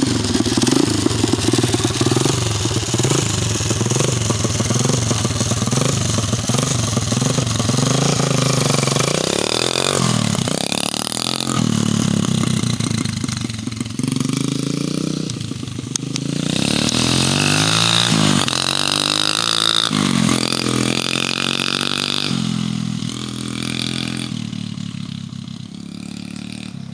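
250cc dirt bike engine running and revving, its pitch rising and falling several times through the middle. The sound fades over the last few seconds.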